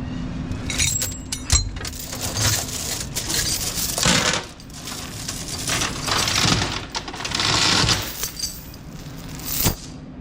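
Steel tie-down chains clinking and rattling as they are handled, with repeated sharp metal clicks.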